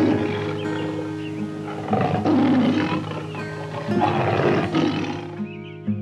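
Three loud, rough animal calls about two seconds apart, each lasting about a second, over background music with sustained tones.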